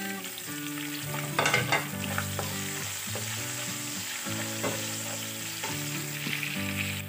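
Sliced onion and green chillies sizzling in hot oil in a nonstick frying pan, stirred with a spatula that clicks and scrapes against the pan a few times.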